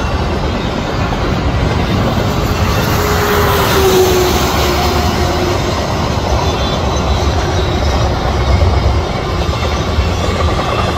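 BNSF double-stack intermodal freight train rolling past: a steady rumble of steel wheels on rail with clickety-clack from the well cars, and a faint whining tone about four seconds in.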